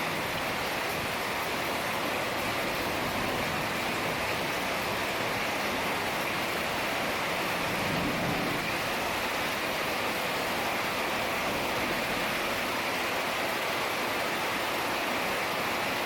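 Heavy rain pouring down in a steady hiss, swelling slightly about halfway through.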